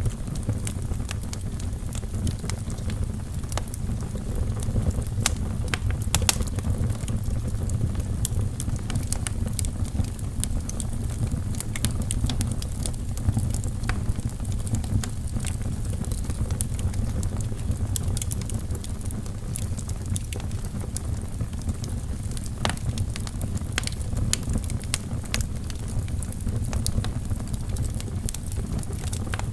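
Wood fire burning in a fireplace: a steady low rumble of flame, with scattered sharp crackles and pops from the burning logs.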